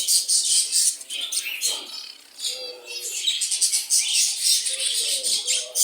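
Caged cockatiels and lovebirds chattering and chirping together in a continuous stream of fast, high-pitched calls.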